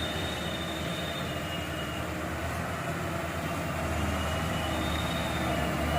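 Diesel truck engine running steadily at low revs, growing a little louder about four seconds in.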